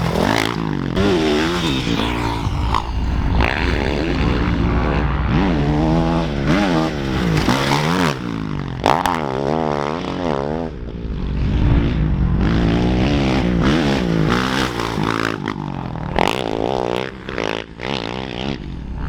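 Dirt bike engine revving hard, its pitch climbing and dropping back over and over as the rider accelerates, shifts and backs off over rough ground.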